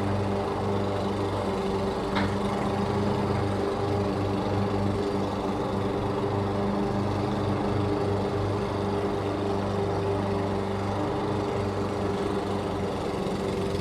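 Petrol lawn mower engine running at a steady speed, with a constant drone.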